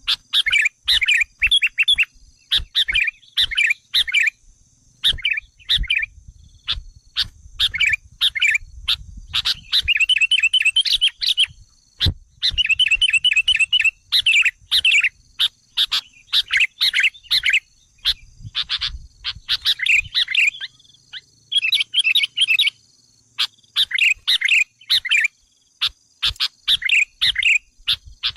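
Sooty-headed bulbul (kutilang) calling over and over in short, fast chattering phrases of bubbly notes, the kind of call played as a lure to draw in wild bulbuls. A faint steady high tone runs underneath.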